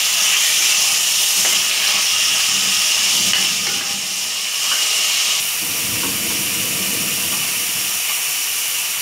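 Chicken strips sizzling in hot oil over a high flame, a steady hiss.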